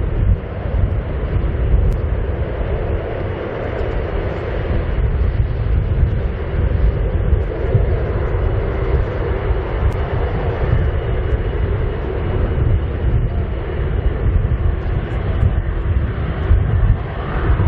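Airbus A330-343's Rolls-Royce Trent 700 turbofans running at takeoff power, a steady, heavy jet rumble as the airliner takes off.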